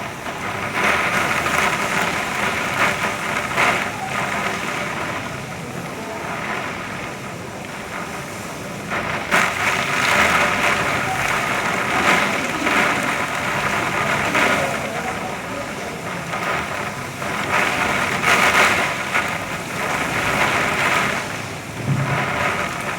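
Heavy rain pouring steadily, swelling and easing in waves.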